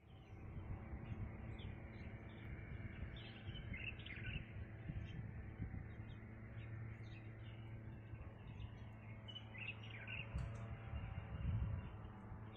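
Outdoor ambience of steady low rumbling noise with a faint even hum, and birds chirping briefly about three to four seconds in and again around ten seconds in.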